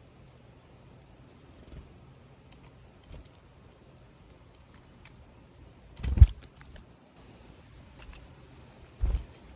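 Birds knocking and clattering at a bird feeder: a sharp knock about six seconds in and another about nine seconds in, with small clicks between.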